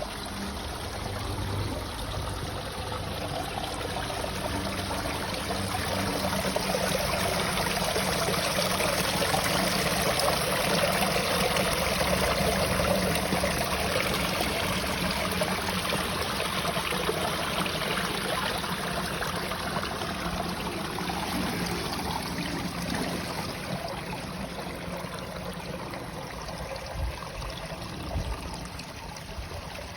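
Spital Brook, a small woodland stream, flowing and trickling over its bed in a steady wash of running water that swells in the middle and eases toward the end. A couple of brief low knocks come near the end.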